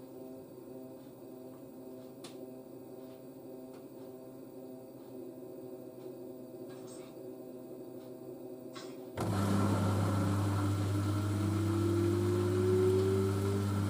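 LG DirectDrive F1496AD washer dryer with a few faint clicks from the drum, then about nine seconds in the direct-drive motor suddenly gets louder and starts ramping the drum up toward a spin, with a rising whine. The load of towels is really unbalanced.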